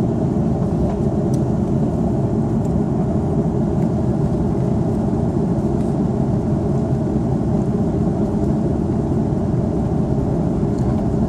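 Steady low drone of an Airbus A330-300 in flight, the engine and airflow noise heard from inside the passenger cabin, even and unchanging.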